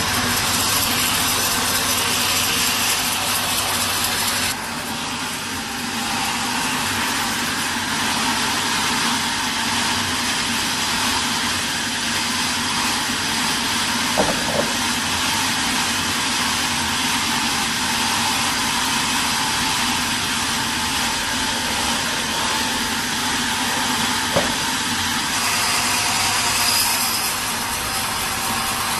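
Sawmill machinery running steadily with a loud mechanical noise. The high hiss drops off about four seconds in and swells again briefly near the end, with a few faint knocks in between.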